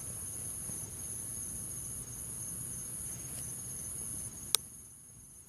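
Crickets chirping in a steady high trill over low background noise, with one sharp click about four and a half seconds in.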